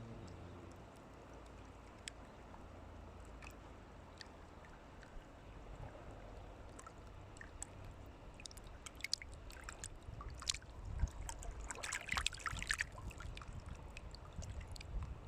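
Running water with a low rumble and scattered clicks, growing busier with a cluster of crackling splashes about ten to thirteen seconds in.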